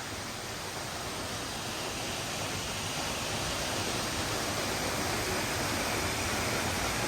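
Steady rush of a waterfall, an even wash of falling water that grows slowly louder.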